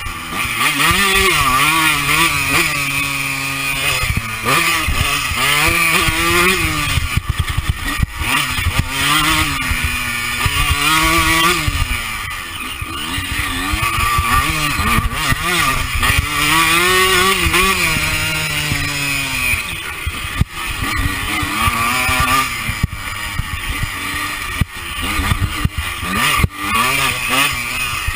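Honda CR125's two-stroke single-cylinder engine on a ride, revving up and dropping back again and again as the throttle is opened and closed, heard close up from the rider's chest with wind noise.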